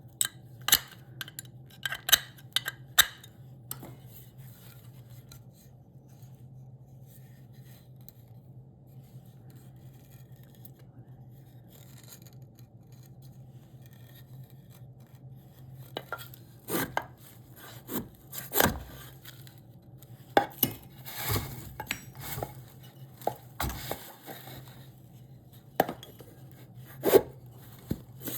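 Irregular knocks and clinks of hand tools and wood being handled, in a burst at the start and a longer run in the second half, with a quiet stretch between. A steady low hum runs underneath.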